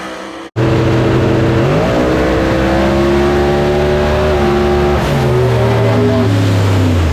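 Drag race car engine at full throttle during a pass, loud and steady, its pitch climbing about two seconds in, then falling away over the last couple of seconds.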